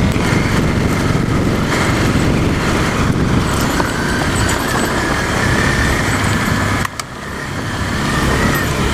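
Dual-sport motorcycle running along a dirt road, heard from the rider's own bike: a steady loud engine and road rumble with a faint engine whine that drifts slowly in pitch. The sound drops briefly about seven seconds in.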